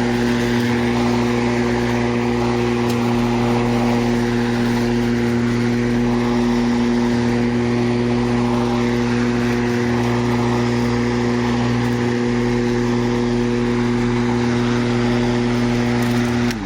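Greenworks 20-inch 12-amp corded electric lawnmower running steadily with an even hum while cutting grass. It is switched off near the end and the sound dies away as the motor and blade run down.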